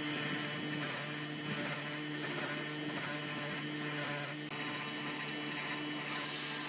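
Rhythmic hand scraping strokes on a metal part, about two a second, over a steady hum; the strokes stop near the end.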